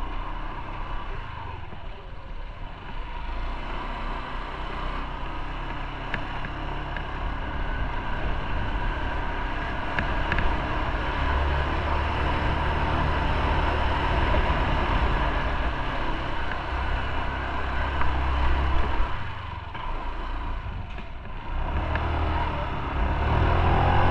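Motorcycle being ridden on the road, its engine running under a haze of wind and road noise. The engine grows louder through the first part, eases off briefly about three quarters of the way through, then picks up again near the end.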